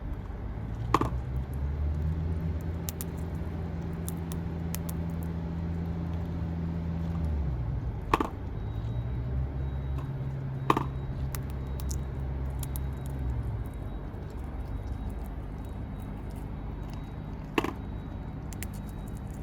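Four sharp knocks a few seconds apart, over a low, steady engine hum that runs for several seconds twice.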